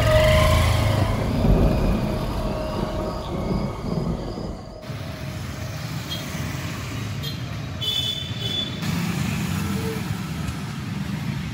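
Motorcycle engine running as it carries two riders, then, about five seconds in, a sudden change to town street traffic noise with passing vehicles.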